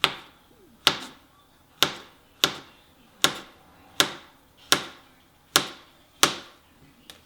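Knife cutting a banana into slices, the blade striking down about ten times at an even pace, roughly one cut every three-quarters of a second.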